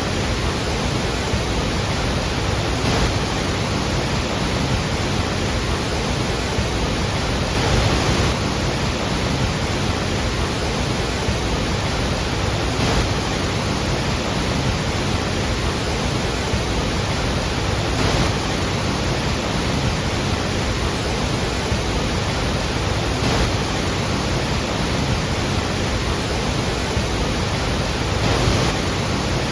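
Iguazú Falls: a massive waterfall's steady, loud rush of falling water, with slight swells about every five seconds.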